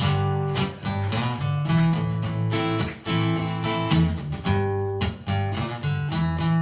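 Acoustic guitar strumming chords in a steady rhythm: the instrumental intro of a song, played live.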